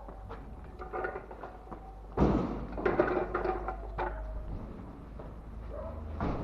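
A series of knocks and thuds, the loudest a sudden thump about two seconds in.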